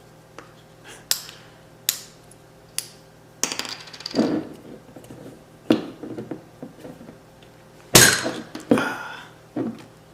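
Marble-stoppered Japanese soda bottle (ramune) being opened: several sharp clicks and taps of the plastic opener against the glass neck, some scraping, then a loud knock about eight seconds in as the marble is pushed down, followed by about a second of fizzing hiss.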